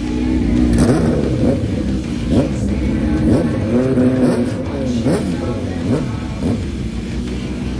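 Drag-racing motorcycle engines revving, the pitch sweeping up and dropping back several times in a row.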